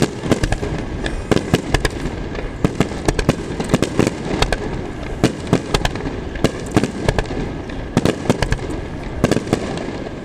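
Rapid barrage of aerial firework shells bursting, several sharp bangs a second in an unbroken run, with crackling between them.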